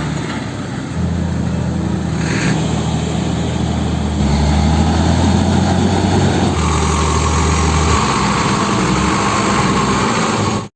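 Heavy diesel engine running, its note shifting several times as the throttle changes, then cutting off suddenly near the end.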